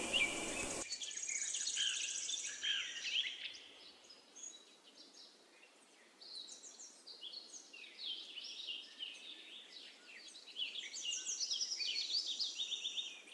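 Faint chirping of birds in the background: many short, high chirps and trills, dropping away for a couple of seconds in the middle.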